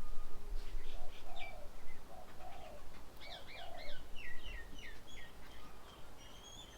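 Several songbirds at a garden bird table chirping and calling, with quick repeated up-and-down notes clustered in the middle. A few lower, softer calls come in the first half.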